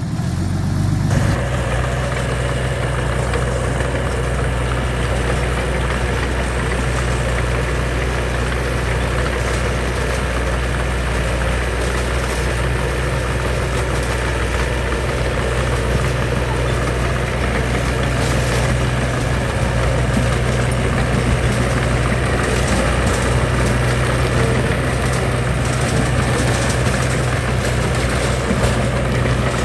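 Diesel engine of heavy earthmoving machinery running steadily, with a low even drone that gets louder about a second in.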